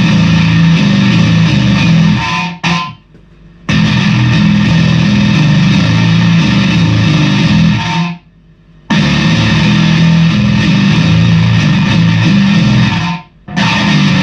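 Squier Bass VI played through a Swollen Pickle fuzz pedal: thick, heavily fuzzed riffs in three loud phrases, with short breaks about two and a half seconds in, around eight seconds and near the end.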